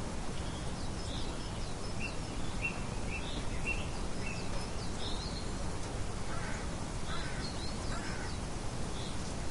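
Steady wind noise with birds chirping: short high chirps scattered throughout, and three lower, harsher calls between about six and eight seconds in.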